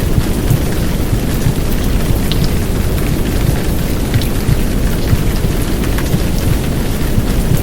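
Heavy downpour with scattered drop ticks, laid over a dense, steady low rumbling whoosh of simulated womb sound.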